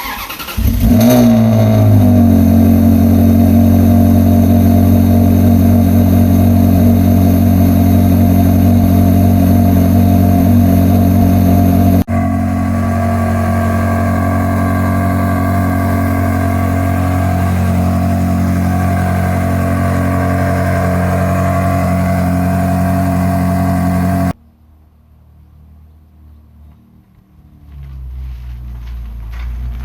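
Ferrari 360 Modena's 3.6-litre V8 starting with a quick rev flare, then idling steadily through its modified, newly fitted muffler. About 24 seconds in the level drops sharply, and a low rumble builds again near the end.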